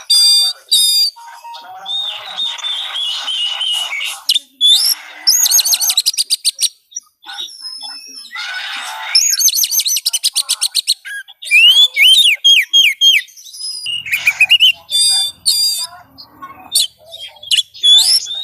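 Oriental magpie-robin (kacer) singing a loud, varied song: clear whistles, fast runs of repeated notes, a string of rising sweeps about two thirds of the way in, and harsh rasping phrases in between.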